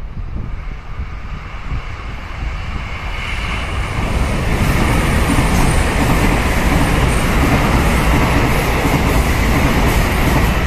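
Electric multiple-unit passenger train running past on the line, its wheels rumbling on the rails. The sound grows as the train approaches and stays loud from about four seconds in as the carriages go by.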